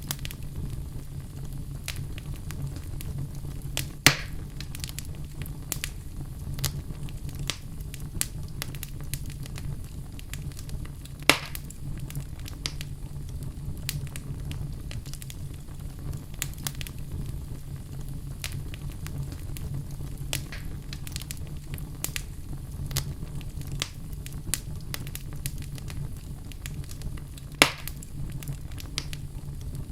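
Wood fire burning in a fireplace, crackling continually over a steady low hum. Three sharp, louder pops stand out, about 4, 11 and 28 seconds in.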